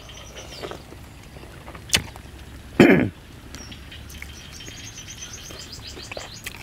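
Close-up chewing of crispy-skinned roast rat, with a sharp click about two seconds in and a louder short crunch or smack just before three seconds. Birds chirp repeatedly in the background from about halfway.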